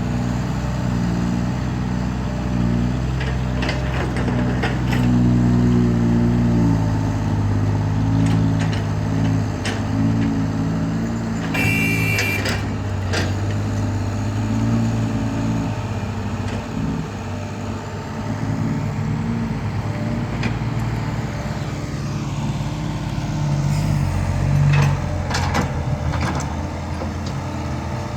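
Dump truck's diesel engine running under load, its note stepping down about six seconds in, with a short hiss near the middle.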